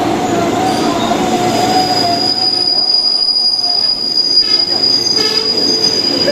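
Train wheels squealing against the rail as a train rolls slowly through the station, with a steady high-pitched squeal held throughout and a lower, wavering squeal in the first couple of seconds, over the rumble of the wheels.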